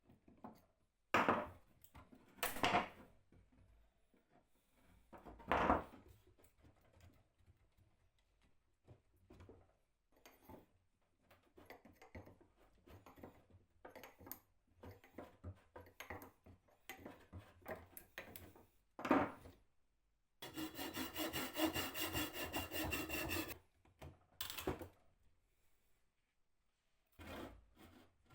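Wood being worked by hand: scraping and sawing strokes with a few sharp knocks. Near the end a steady mechanical buzz runs for about three seconds.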